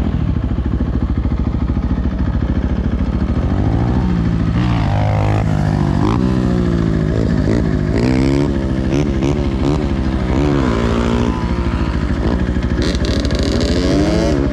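Dirt bike engine riding along a trail, the revs rising and falling repeatedly as the throttle is worked and the gears are changed, with some clatter.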